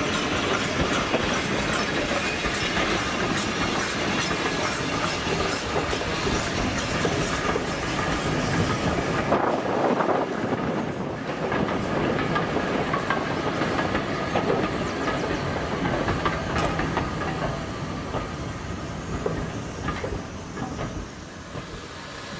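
Steam-hauled train passing, its coach wheels clicking over the rail joints. The sound thins about halfway through and fades near the end.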